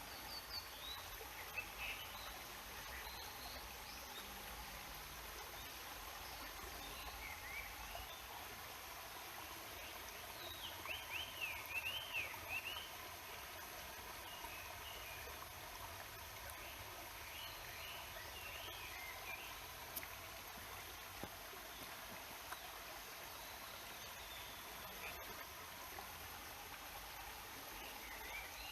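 A mountain stream running steadily, with songbirds chirping over it in short calls. A quick run of chirps about eleven seconds in is the loudest moment.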